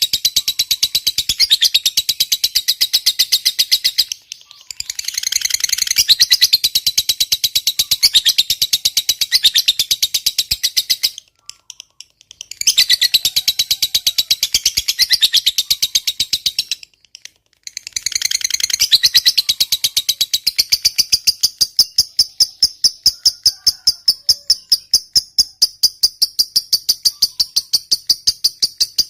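Lovebird giving its long 'ngekek' chatter: a loud, rapid run of high-pitched repeated notes that breaks off briefly three times. For the last third it settles into an even, pulsing trill at a steady pitch.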